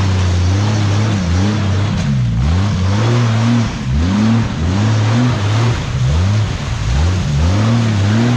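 Off-road 4x4's engine revving up and down over and over, its pitch rising and falling about once a second as the throttle is worked.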